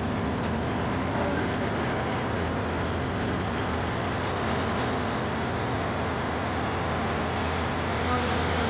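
Steady hubbub of a crowd over a constant low hum.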